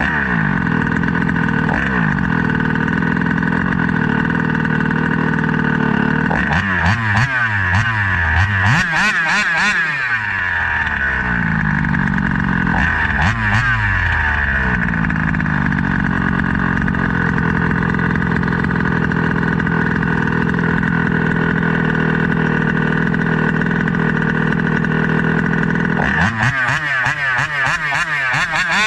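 Small 29cc reed-valve two-stroke engine (SCZ E290) running hard at high revs on a speed run, a steady high-pitched note. Twice, about a third of the way in and again near the end, the pitch falls and climbs as the engine backs off and winds up again.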